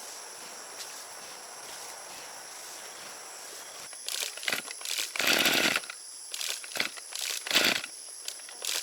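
Steady high buzzing of insects, then from about four seconds in a run of irregular scraping and rustling noises, the longest nearly a second.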